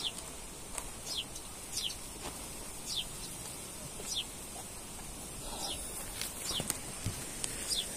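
A bird calling with short whistled notes that fall in pitch, repeated roughly once a second, with a few light clicks or knocks near the end.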